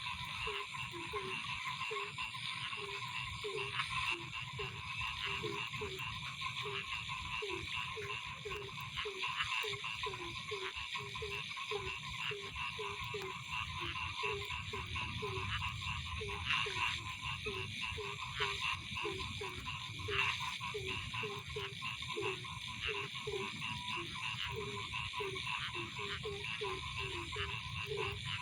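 Frogs croaking in a night chorus, short low calls about two a second, over a steady high-pitched trilling chorus.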